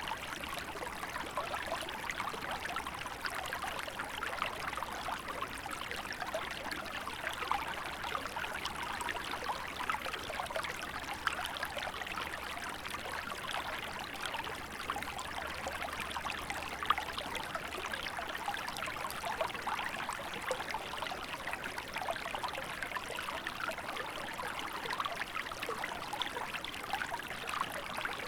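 A small river in winter flowing steadily, a continuous babble of water over stones with small splashes and trickles.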